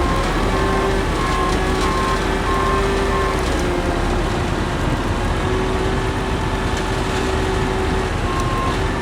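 Holmer Terra Dos T4-40 sugar beet harvester running steadily under load while lifting beets, a continuous heavy machine drone. A repeating beep sounds over it for the first two seconds and again briefly near the end.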